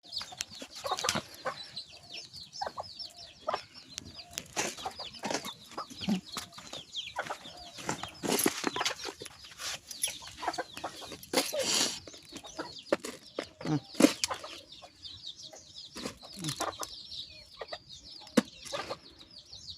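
Young chickens cheeping in many quick, high, falling peeps while pecking at rice, with frequent sharp tapping clicks.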